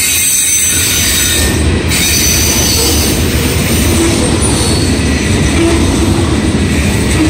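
Heavily loaded covered hopper freight cars rolling past close by: a loud, steady noise of steel wheels running on the rails, with no breaks or changes.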